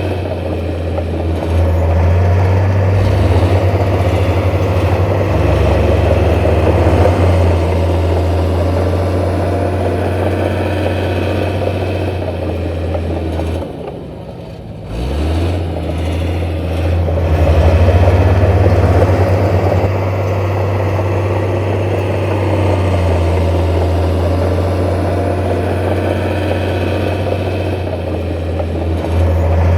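Heavy diesel engine of earthmoving machinery running, its low note holding steady for long stretches with shifts in load, easing off briefly about halfway through before picking up again.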